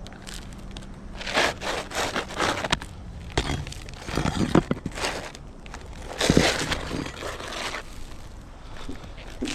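Brittle roof shingles being pried loose and broken out, in irregular scraping and crackling bursts, the loudest about six seconds in.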